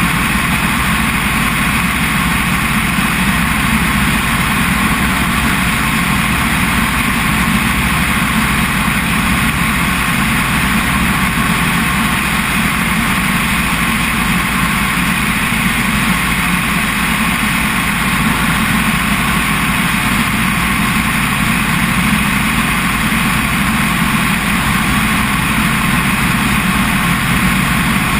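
Helicopter in flight: steady, loud engine and rotor noise that holds unchanged throughout.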